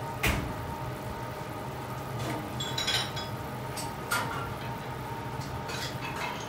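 Grated coconut frying in its own melted coconut oil in a stainless steel pan as it roasts into kerisik: a fine bubbling crackle with a handful of sharp pops and clicks, over a steady low hum.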